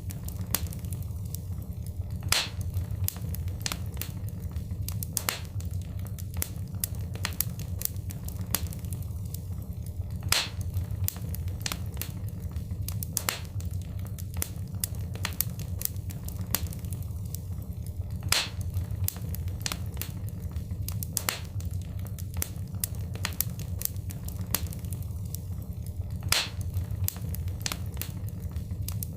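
Fireplace fire crackling, with many sharp pops over a steady low rumble; the loudest pops come about every eight seconds.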